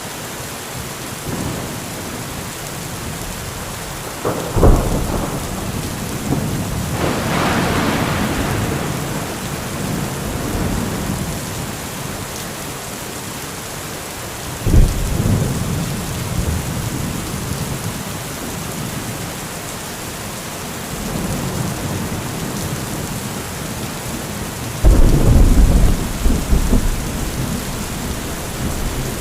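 Heavy thunderstorm: steady rain with thunder. A sharp thunderclap about four seconds in rolls into a long rumble, another clap comes about halfway through, and a loud clap near the end is followed by heavy rumbling.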